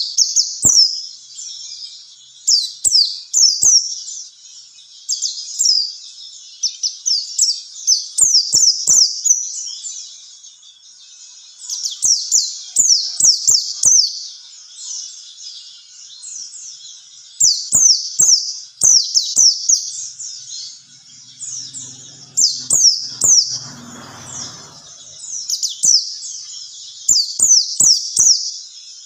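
White-eye (pleci) song: rapid runs of high, short falling chirps in bursts of a second or two with short pauses. It is played as a pancingan lure recording to draw caged birds into singing. A brief low rumble comes in about three-quarters of the way through.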